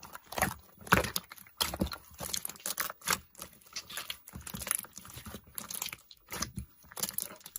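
Slime being squished and poked by hand, a string of irregular crackles, pops and sticky clicks.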